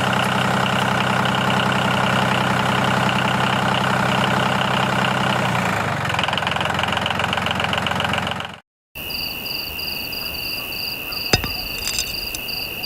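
A motor running steadily. About two-thirds of the way in it cuts out briefly, then a different steady running sound follows, with a high-pitched whine and a faster pulsing tone above it.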